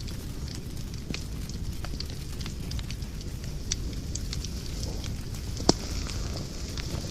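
Wood fire burning in a fireplace: a steady low rumble of flames with scattered crackles and snaps, and one sharp loud pop about five and a half seconds in.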